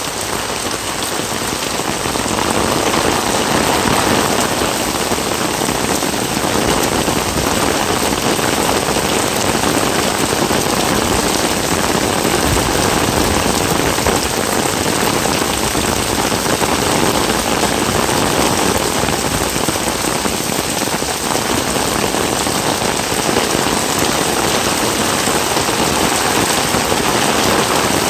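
Very intense, heavy rain pouring down steadily on surfaces, a dense unbroken hiss.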